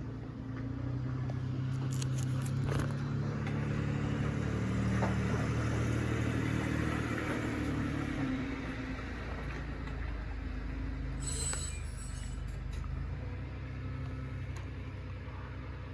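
A motor vehicle engine running, swelling louder over several seconds with a brief rise in pitch about eight seconds in, then easing off. A short hiss comes a few seconds later.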